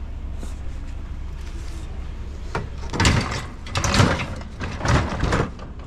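A discarded metal patio chair being picked up and shoved onto a loaded scrap trailer: a series of rough scrapes and clatters, four or five of them in the second half, over a steady low hum.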